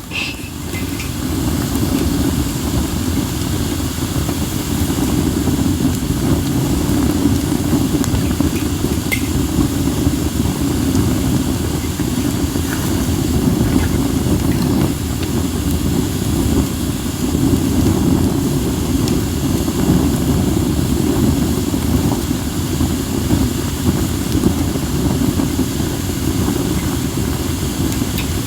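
A wood fire of acacia and mixed firewood burning, with a few faint crackles. A steady low wind rumble on the microphone is the loudest sound.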